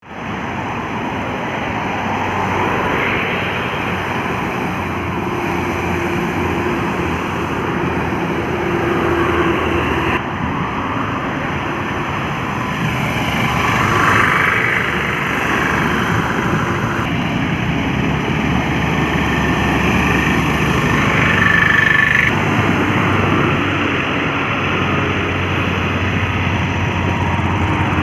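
Highway traffic with heavy trucks passing: a steady, loud mix of engine and tyre noise.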